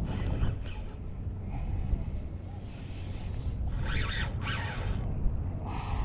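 Wind buffeting the microphone in a low steady rumble, broken about four seconds in by two short hissing bursts close together and another near the end.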